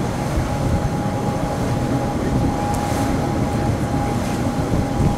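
Cogwheel rack train of the Montenvers line running on its climb, heard from inside the carriage: a steady rumble with a constant whine held at one pitch.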